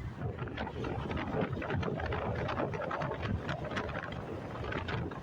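Motorcycle engine and road noise while riding, rough and uneven.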